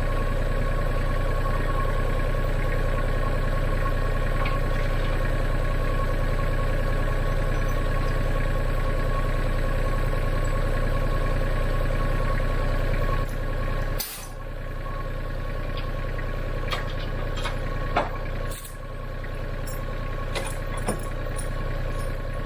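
John Deere X748 garden tractor's three-cylinder diesel engine idling steadily, with a few sharp clicks and knocks in the last third.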